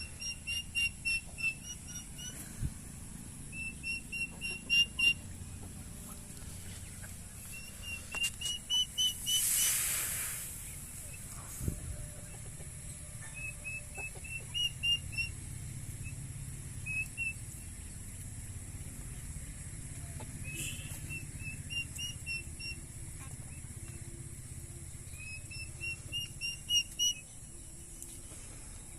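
A bird calling again and again in runs of short, clear whistled chirps, each run of about six to eight notes rising slightly, over a faint steady outdoor background. About ten seconds in, a brief rushing hiss swells up and fades.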